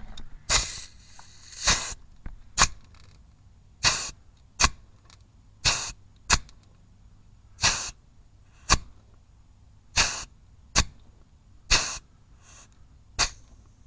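Pneumatic grease gun pumping grease into a front driveshaft grease nipple, firing a short hiss of air with each stroke, about a dozen strokes roughly a second apart.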